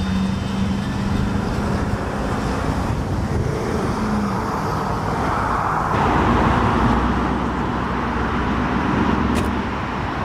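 Car engines running with traffic noise, a steady hum joined about halfway through by louder rushing noise as a vehicle moves close.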